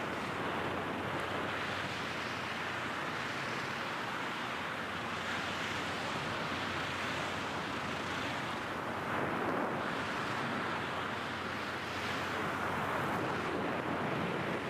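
Steady rushing wind of a skydiving freefall, the airstream blasting across the microphone.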